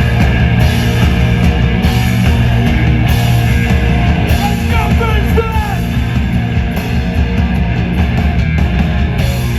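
A post-hardcore band playing live and loud: distorted electric guitars over bass and drums, with a few short sliding high notes about five seconds in.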